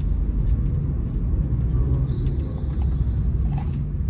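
Steady low rumble of a Honda City car's engine and tyres heard from inside the cabin while driving, with a brief hiss about two seconds in.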